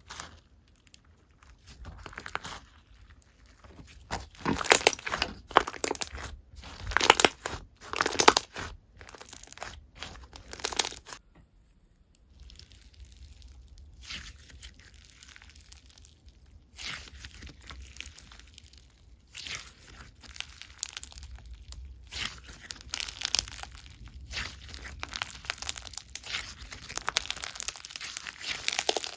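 Slime being squished and stretched by hand, with irregular crunchy, crackling pops. The crackling is loudest in the first third and settles into a steadier run after a short pause about twelve seconds in.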